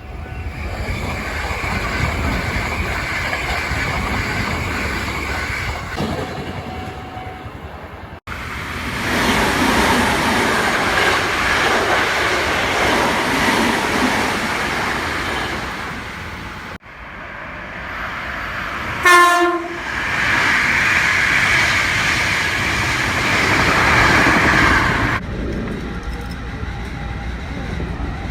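Hankyu Kobe Line electric trains running through a level crossing, wheels rumbling and clattering over the rails, with the crossing bell ringing in a steady repeated clang early on. About 19 seconds in comes one short, loud warning blast of the train's horn.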